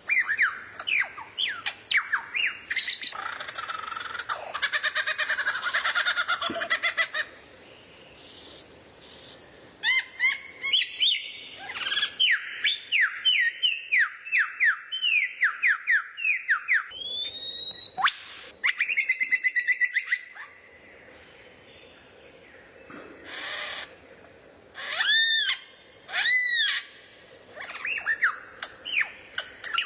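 Recorded songbird song and calls: rapid series of down-slurred whistled notes, a dense chattering rattle, a long rising whistle, and a pair of arched, ringing notes near the end, with short pauses between phrases.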